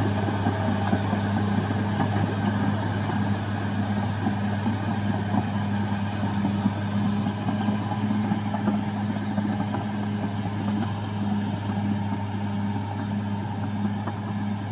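CAT D6R XL bulldozer's diesel engine running steadily at constant speed, a low, even drone.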